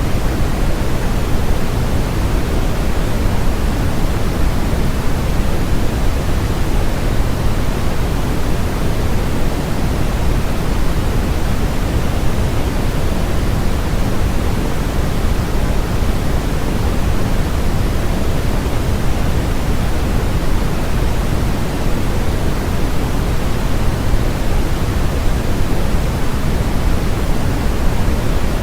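Steady synthetic noise of the kind sold as white noise, unchanging throughout. Its hiss is weighted toward the low end, closer to pink noise than true white noise.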